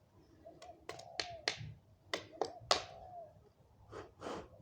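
Wooden hand-drill spindle twirled between the palms against a hearth board, giving short sharp squeaks and clicks in quick groups of two or three. A dove coos faintly in the background.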